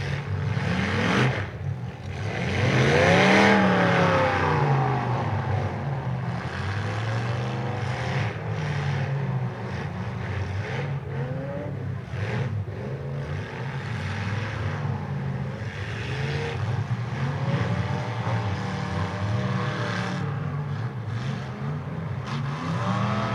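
Several demolition derby cars' engines revving up and down at once as they drive and ram around the arena, with one loud rev rising and falling about three seconds in.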